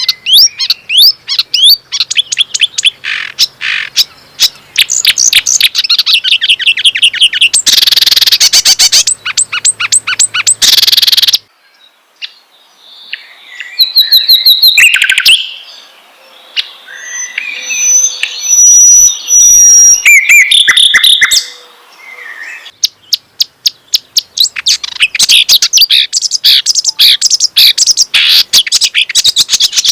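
Songbird song: fast runs of loud, sharp chirps and whistled trills, broken by short pauses about twelve and twenty-two seconds in.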